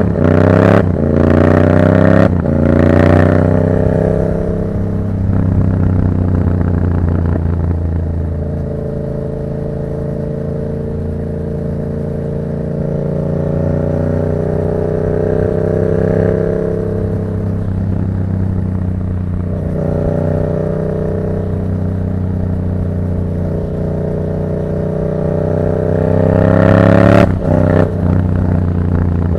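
Yamaha MT-07's 689 cc parallel-twin engine through a Black Widow aftermarket exhaust, heard while riding. In the first few seconds it pulls up through the gears with short breaks at each shift. It then cruises at fairly steady revs, and near the end it revs up hard, the loudest moment, with a couple of quick breaks.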